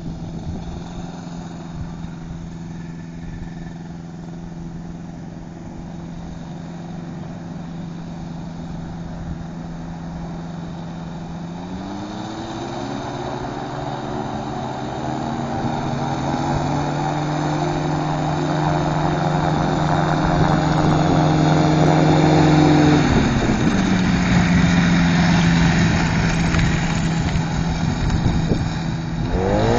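Microlight's Rotax 512 engine and propeller running steadily, then revved up about a third of the way in, held at higher, louder revs, and throttled back to the lower speed; near the end it revs up again.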